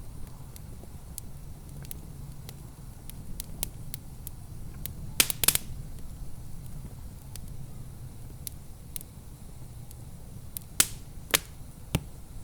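Wood fire crackling in a fireplace: scattered small ticks and sharper pops, with a louder cluster of pops about five seconds in and a few more near the end, over a low steady rumble.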